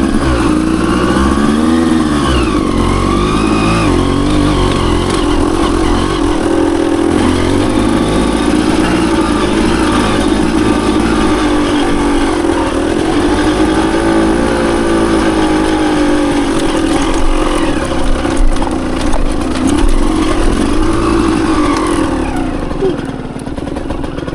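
Dirt bike engine running under load, the revs rising and falling again and again as the throttle is opened and closed through the turns.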